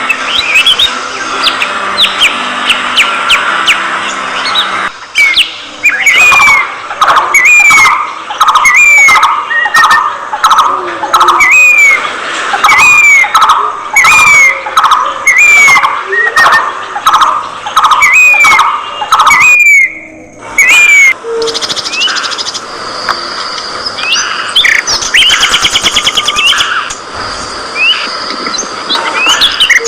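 A flock of budgerigars chirping and chattering, dense and continuous. Through the middle, one bird repeats a short call over and over, about one and a half times a second, until it breaks off about twenty seconds in.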